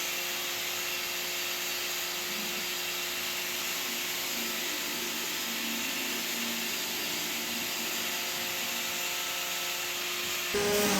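A power tool running steadily in the workshop: a constant whirring hiss with a low steady hum underneath, breaking off just before the end.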